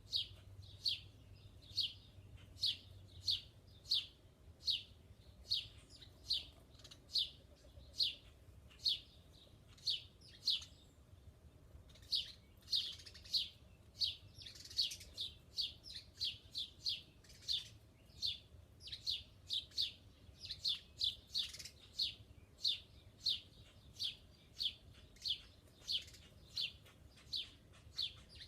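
A small bird chirping over and over, short single chirps at about two or three a second, with a pause of about a second and a half near the middle.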